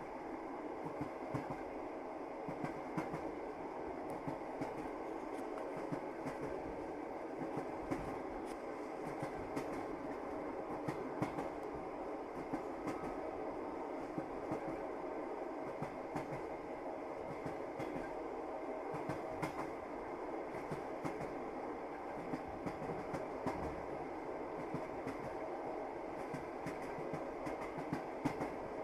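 Train wheels clattering over the rails: a steady rumble with many short, irregular clicks and knocks, the sound of a moving train.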